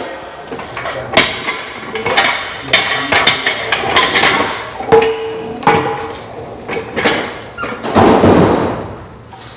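Metal tools and engine parts knocking and clanking at an irregular pace during shop work, with one short ringing clang about halfway and a longer rushing burst of noise near the end.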